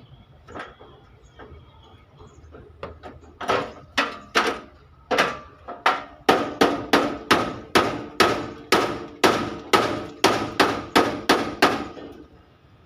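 Hammer striking sheet-steel truck bodywork in dent repair, each blow ringing briefly. A few spaced blows about three seconds in are followed by a steady run of about three strikes a second that stops shortly before the end.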